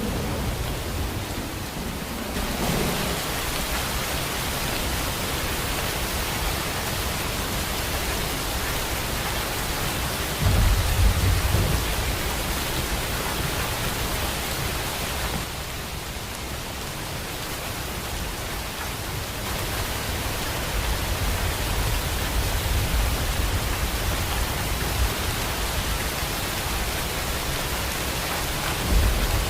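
Steady heavy rain. A low rumble of thunder comes about ten seconds in, and more rumbling follows through the second half.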